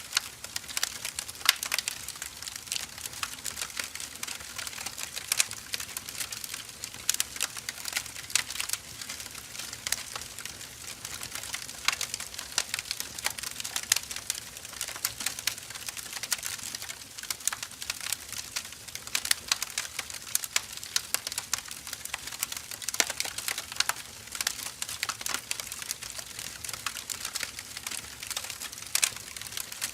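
Split firewood logs burning, crackling and popping at irregular intervals, several sharp snaps a second over a soft steady hiss.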